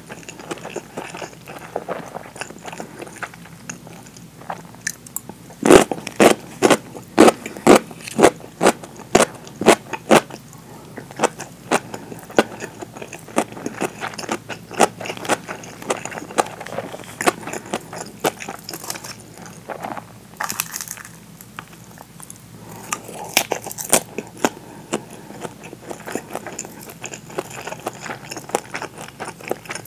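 Chewing, with a run of loud, crisp crunches about two a second starting about six seconds in as a slice of sweet-pickled daikon (tōshibori daikon) is bitten and chewed, then softer, irregular chewing.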